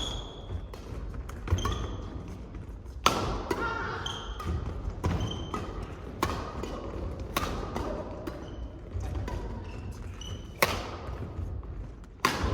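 Badminton doubles rally: sharp racket strikes on the shuttlecock every one to two seconds, with short squeaks of shoes on the court floor between them.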